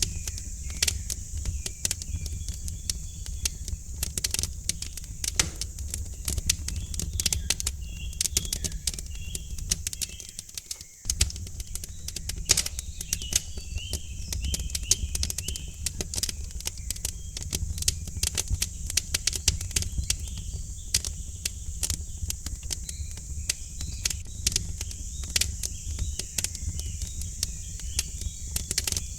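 Wood fire in a fireplace crackling, with irregular sharp pops over a steady low rumble of the flames, which dips briefly about eleven seconds in. Small birds chirp faintly in the background.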